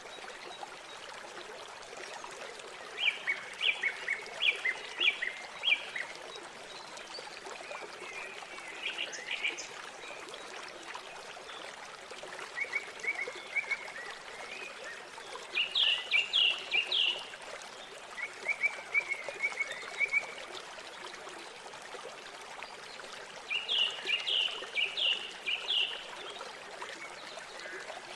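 River water running steadily, with a bird calling over it every few seconds in bursts of five or six short, quick high notes.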